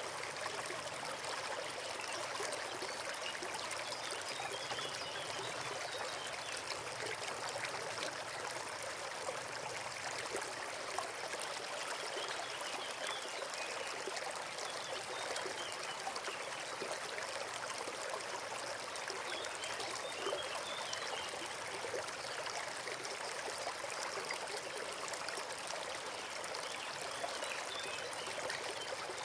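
Small forest stream babbling and trickling steadily over stones.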